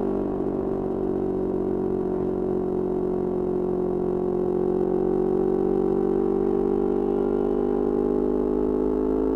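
Yamaha R25's 250 cc parallel-twin engine running at steady revs through a Kea Speed aftermarket exhaust, its pitch creeping slowly upward over the last few seconds.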